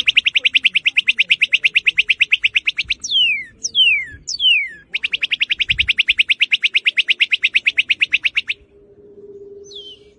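Northern cardinal singing: a very rapid, even trill of repeated notes. Three down-slurred whistles follow, then a second long rapid trill that stops about two-thirds of the way in, and more falling whistles near the end.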